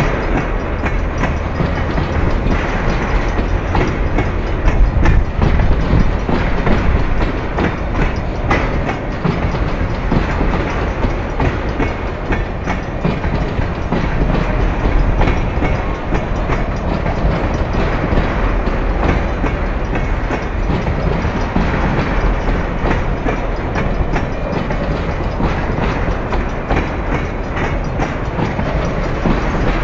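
Freight train of tank cars rolling past close by: a steady low rumble of steel wheels on rail, with frequent clacks as the wheels cross rail joints.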